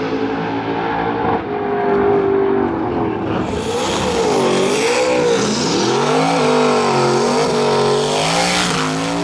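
Drag race car's engine running hard, its pitch swinging up and down several times in quick succession partway through.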